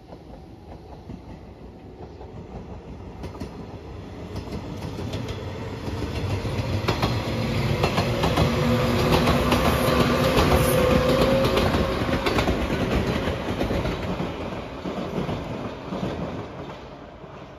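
JR West 115 series electric local train passing, its wheels clacking over the rail joints. It grows steadily louder to a peak around ten seconds in, then fades as it moves away.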